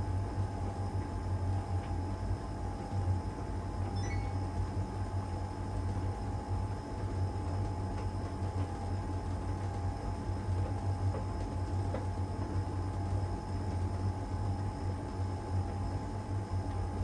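LG heat pump tumble dryer running in its drying phase: a steady low hum with a constant higher tone over it.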